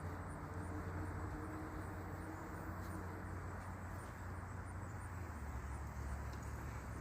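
Outdoor ambience: a steady low rumble with an even hiss, and faint high chirps repeating about twice a second.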